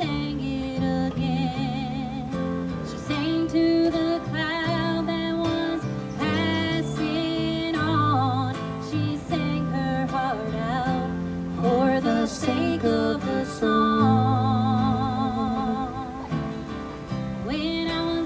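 A band playing live: a singer with vibrato over strummed acoustic guitar and steady low notes beneath.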